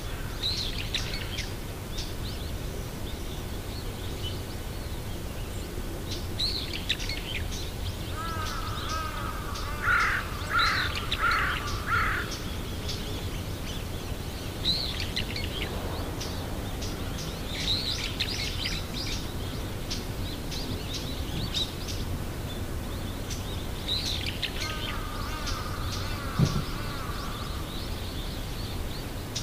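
Birds calling: small birds chirping high on and off, with a run of four louder, harsh calls about ten seconds in and a softer run of similar calls near the end, over a steady low rumble. A short low knock sounds near the end.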